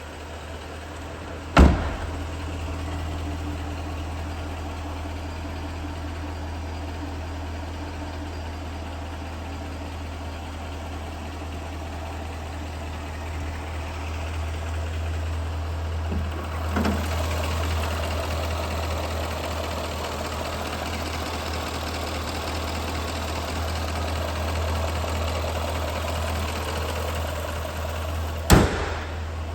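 Supercharged 5.0-litre V8 of a 2018 Jaguar F-Type R cold-starting with a sharp bang about a second and a half in, then idling steadily. The idle grows fuller about halfway through, and a second sharp thump comes near the end.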